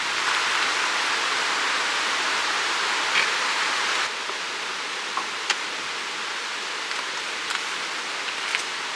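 Steady rushing of a river flowing, with a few scattered sharp ticks over it. The rushing drops slightly in level about four seconds in.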